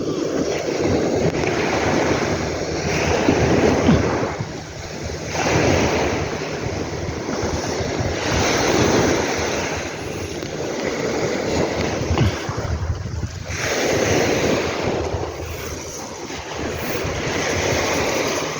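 Sea waves breaking and washing up the beach, swelling and fading in repeated surges a few seconds apart.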